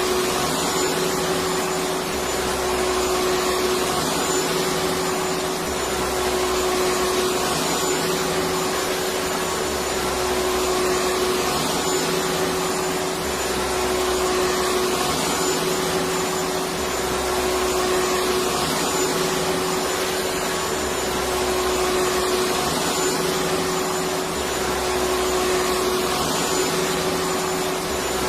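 Electric vacuum cleaner running continuously: a steady whooshing noise with a constant hum tone and a low throb that comes and goes every three to four seconds.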